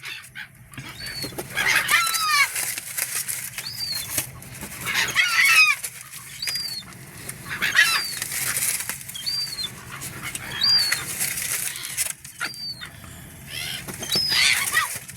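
Seagulls squawking over and over, several birds at once, with short cries every second or so and a rough flutter of wings close by.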